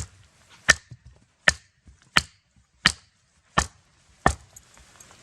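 Firewood being chopped to split it: seven sharp, evenly spaced blows into a log, about one every 0.7 seconds.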